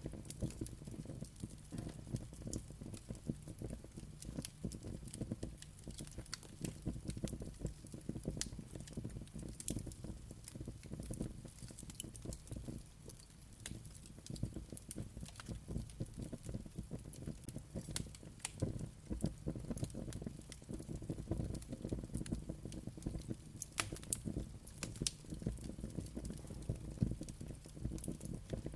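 Wood fire burning steadily, with a low rumble of flames and frequent small, sharp crackles and pops scattered throughout.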